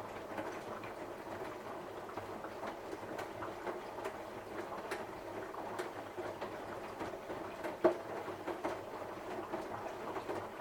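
Samsung front-loading washing machine on its 60 °C cotton cycle, the drum turning the wet load: steady sloshing and rustling with scattered small clicks and one louder knock about eight seconds in.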